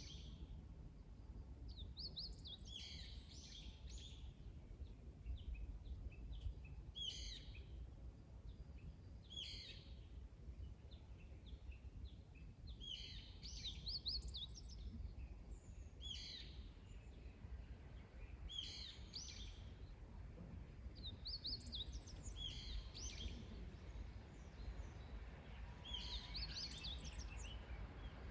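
A songbird singing short, quick chirped phrases, repeated every two to three seconds, over a steady low outdoor rumble.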